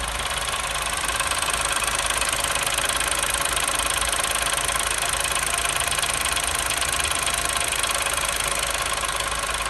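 New Chevrolet Onix engine idling from a cold start with a steady metallic rattle, like tin banging inside the engine. It gets a little louder about a second in. This is the model's well-known defect noise, which appears on a cold start when the brake pedal is pressed.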